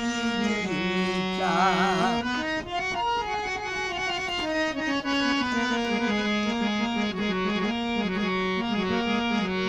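Qawwali instrumental passage: a harmonium playing a sustained, stepwise melody over tabla accompaniment.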